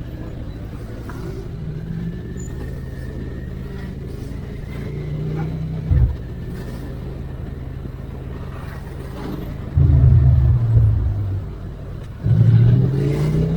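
Suzuki SV650X's V-twin motorcycle engine running under way, with two sudden louder openings of the throttle near the end, the second rising in pitch.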